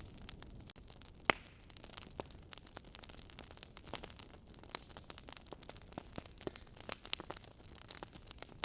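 Wood fire crackling in a fireplace: irregular sharp pops and snaps over a low, steady rumble, with one louder pop about a second in.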